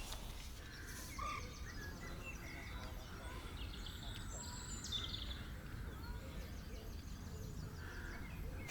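Faint outdoor ambience: small birds chirping and trilling intermittently over a low steady rumble.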